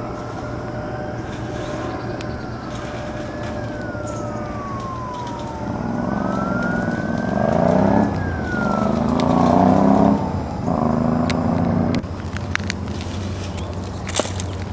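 A siren wailing in slow rising and falling sweeps. About six seconds in, a louder blast joins it with several tones together, then stops about twelve seconds in. A few sharp clicks come near the end.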